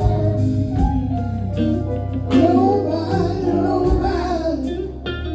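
Live gospel music: a band with bass and drums plays under a vamp, and voices sing in more strongly about two seconds in.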